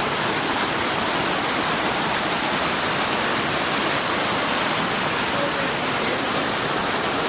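A tall waterfall with a drop of about 150 metres, its falling water making a steady, unbroken rushing noise.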